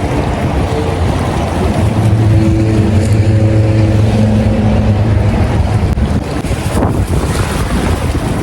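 Wind rumbling on the microphone, with a steady engine hum that comes in about two seconds in and fades out a few seconds later.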